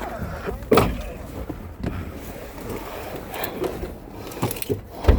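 Knocks and clunks of a vehicle's doors and fittings over a low steady rumble, the loudest a heavy door thud near the end.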